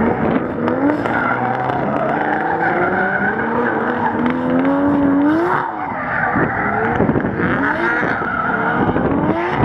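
Nissan Skyline GT-R driven hard, its engine note climbing over several seconds and dropping about halfway through before revving again, with the tyres squealing.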